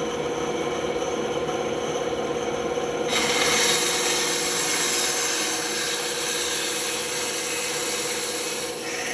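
Band saw running with a steady hum; about three seconds in the blade starts cutting into wood, adding a loud rasping hiss that carries on until near the end.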